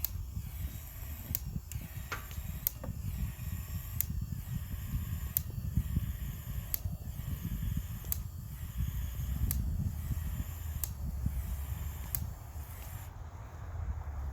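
A steady low rumble with a sharp, regular click about every second and a half.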